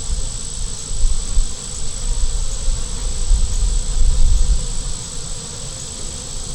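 Honey bees buzzing around an opened hive, stirred up and defensive at the inspection. Low, uneven rumbling on the microphone makes the loudest moments.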